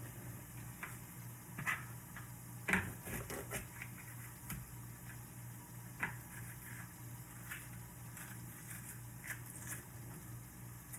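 Kitchen handling noises: scattered light clicks and knocks of items being picked up and set down, the sharpest about a third of the way in, over a steady low hum.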